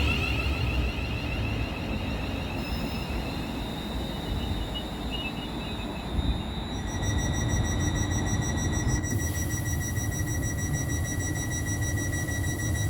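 Train running on the rails with a steady rumble. From about seven seconds in, a steady high-pitched squeal sets in and holds, typical of wheels squealing on the track.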